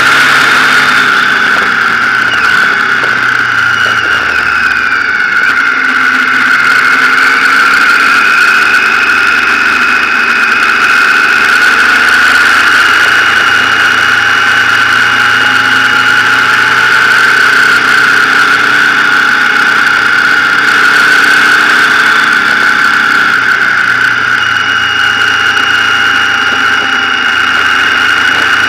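Motorcycle engine running on the move, its pitch drifting gently up and down as the speed changes, with no sharp events.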